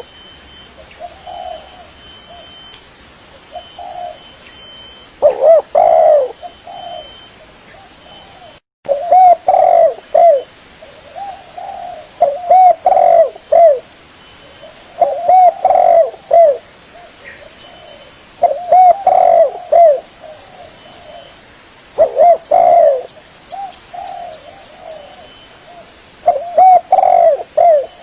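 Spotted dove cooing: loud phrases of repeated low coos, one roughly every three seconds, with softer coos between them. Near a third of the way in there is a brief dropout.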